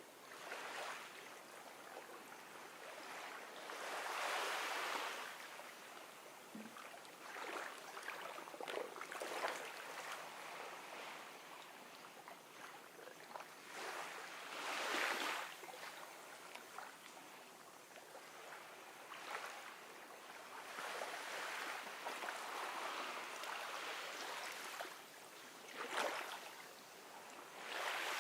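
Gentle ocean waves washing onto a beach, a soft steady hiss that swells as each wave breaks, every few seconds.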